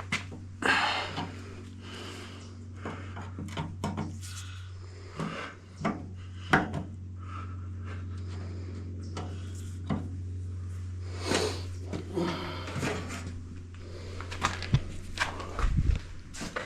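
Scattered clinks, knocks and rattles of hand tools and metal parts being handled, over a steady low hum.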